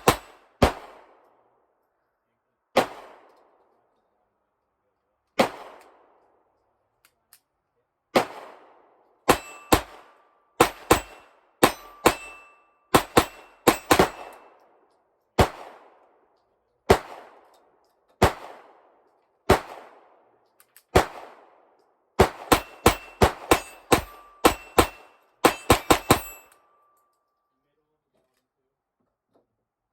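A Ruger .22 LR target pistol firing Winchester Super X bulk hollowpoint rounds at steel plates, each shot followed by the clang and ring of the struck steel. The shots come at uneven spacing, with a fast run of shots near the end that stops about 26 seconds in.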